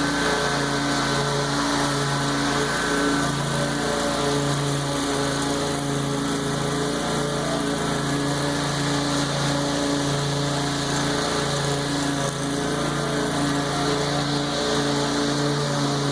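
Lawn mower engine running steadily while mowing overgrown tall grass, its low hum swelling and easing slightly as the load changes.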